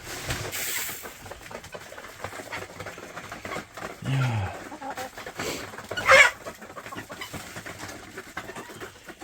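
A flock of chickens clucking and calling low as they crowd in to eat scattered feed. A brief, louder sharp sound comes about six seconds in.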